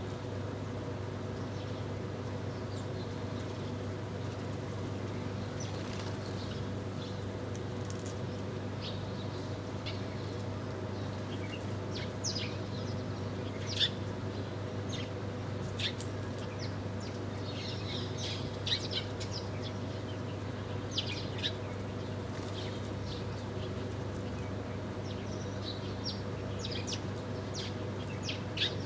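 Small birds chirping at a feeder: short, high calls, sparse at first and more frequent from about twelve seconds in, over a steady low hum.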